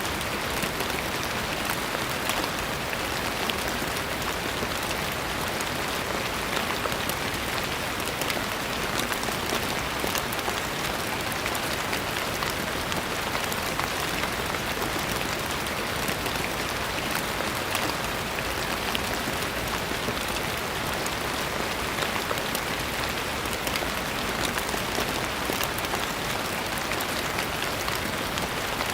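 Steady rain pattering on a surface, an even dense hiss of many small drop impacts with no change in strength.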